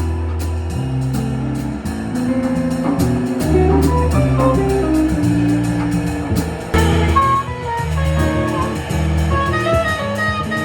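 Jazz quartet playing live: drums and low bass notes under a melody, with a higher melodic line coming in about seven seconds in.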